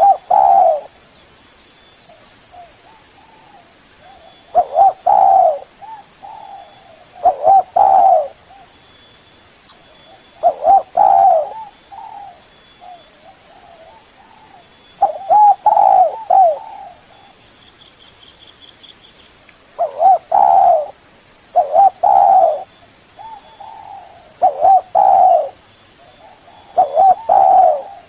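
Spotted dove cooing: a short phrase of a few low coos, repeated about nine times with gaps of two to five seconds.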